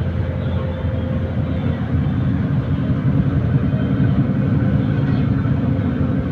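A boat's engine drones steadily, heard from inside the cabin, with a faint steady whine above it. It grows a little louder about two seconds in.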